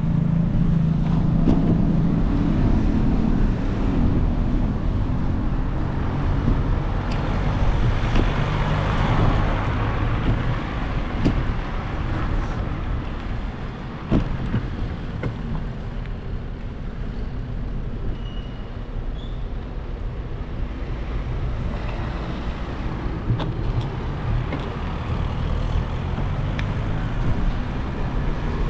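Road traffic: a steady low rumble of a motor vehicle's engine and tyres, with an engine hum that fades after the first few seconds and a few scattered clicks.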